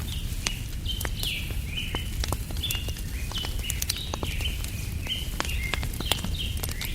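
Wood fire crackling with sharp pops over a steady low rumble, while a bird calls over and over in short chirps, about two a second.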